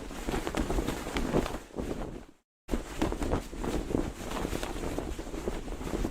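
Cloth flag flapping and snapping irregularly in the wind, over a low rumble of wind on the microphone. The sound fades and cuts out for a moment about two and a half seconds in, then starts again.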